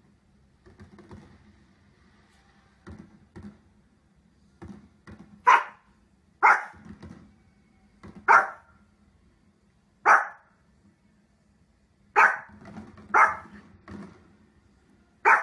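Small fluffy dog barking. A few soft woofs come first, then seven loud, sharp barks spaced a second or two apart.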